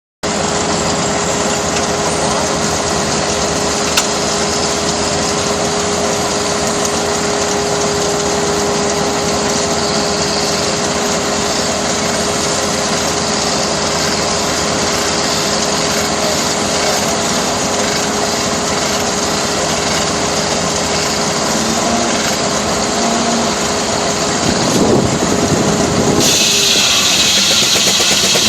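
Sears sawmill running, a steady mechanical whirr with a constant hum through it; near the end the hum drops away and the sound turns brighter and hissier.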